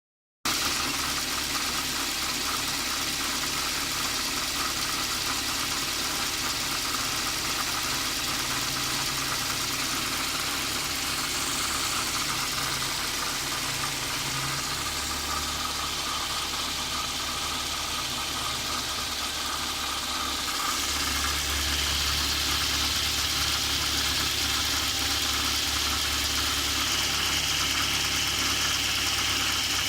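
Perodua Myvi car engine running at idle, a steady mechanical noise that the title puts down to a water pump problem. The sound grows louder about two-thirds of the way through.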